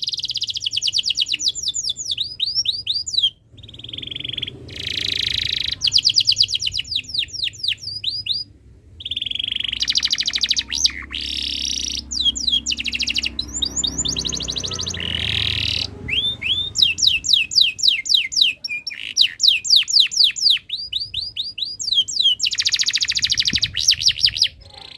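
Domestic canary in breeding condition singing on and on: fast trills and rolls of quick, repeated, downward-sweeping notes, broken by brief pauses.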